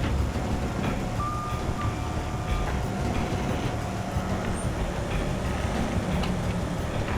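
Heavy truck engine running with a steady low rumble. About a second in, a high steady tone sounds for about a second and a half.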